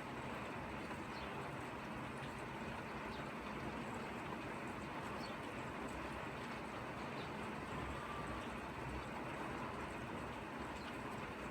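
Steady light rain falling, an even hiss with faint scattered ticks of drops.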